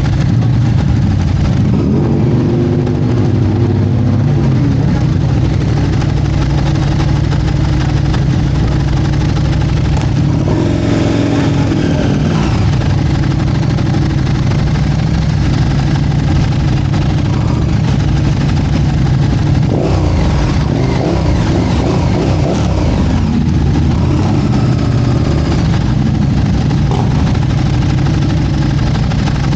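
Motorcycle engine running steadily, with voices faintly heard a few times.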